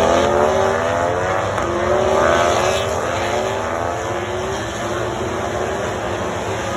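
MotoGP racing motorcycles' 1000 cc four-cylinder engines at high revs, several bikes at once, their notes sweeping up and down in pitch through gear changes. They are loudest in the first three seconds, then ease to a steadier drone.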